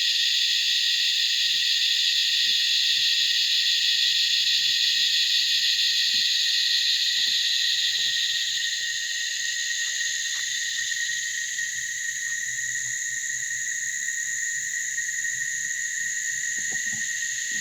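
Cicadas in an intense evening chorus: a loud, dense, unbroken high-pitched drone that eases slightly a little past halfway.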